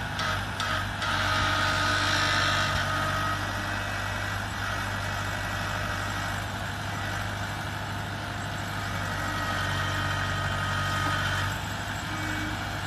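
Tractor diesel engine running steadily under work, with a higher whine that grows louder between about one and three seconds in and again near the end. A few short ticks sound in the first second.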